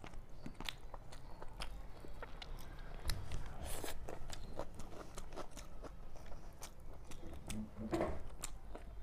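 A person chewing food with lip smacks and many small wet mouth clicks, eating rice and chicken by hand.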